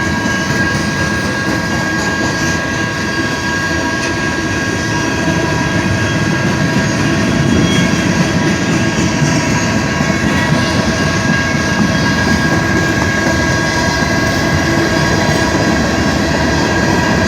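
CSX freight train rolling past: a steady, loud rumble of the rail cars, with a few steady high tones sounding over it.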